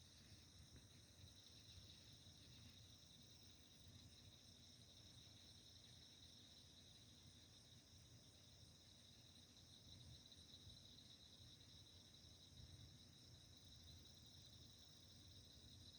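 Faint, steady chorus of crickets trilling at a high pitch, over a low, uneven rumble.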